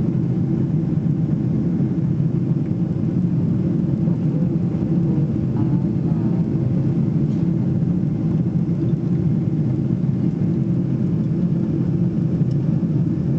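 Steady cabin noise of a Boeing 777-300ER in flight: an even, low rumble from its GE90 engines and the airflow over the fuselage, heard from inside the cabin.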